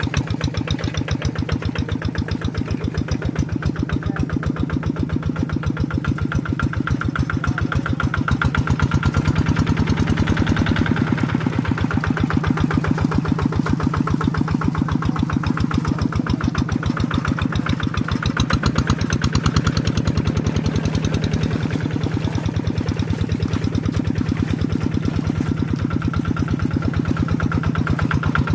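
Tractor engine running steadily with an even, rapid firing beat, getting a little louder about a third of the way in.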